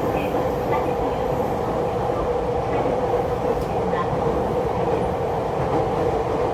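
E231 series electric train running at a steady speed: an even rumble of wheels on rail with a steady hum over it.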